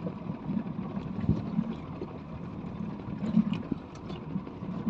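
Speedboat engine idling while choppy water knocks and slaps irregularly against the hull.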